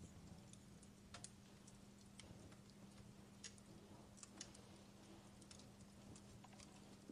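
Faint crackling of a wood fire: sparse, irregular sharp pops and snaps, a few a second at most, over a steady low hum.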